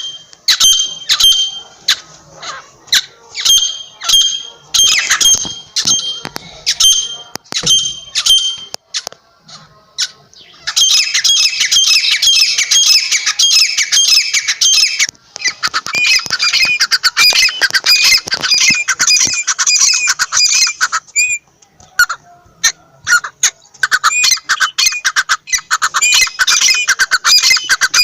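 Francolin (teetar) calling: short calls repeated about twice a second for the first eight seconds, then, after a brief lull, loud fast runs of calls that go on almost without a break, pausing briefly about three quarters of the way through.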